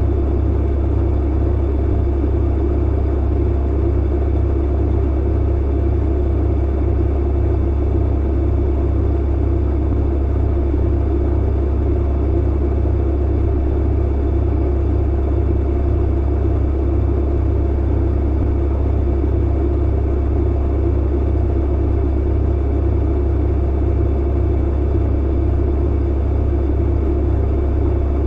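Clothes dryer running, a steady low hum of the motor and drum.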